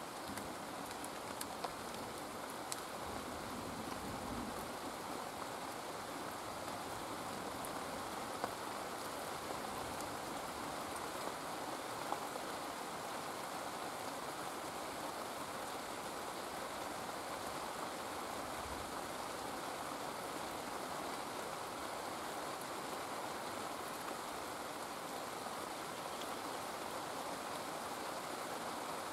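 Steady rain falling, an even hiss with a few sharp drips standing out.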